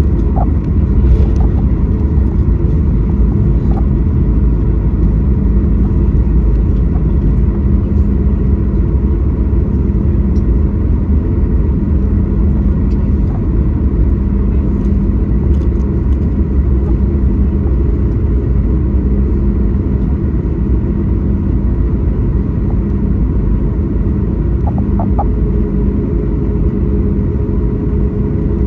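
Boeing 737 MAX 8 with its CFM LEAP-1B jet engines running, heard from the passenger cabin: a loud, steady low rumble with a few faint humming tones over it.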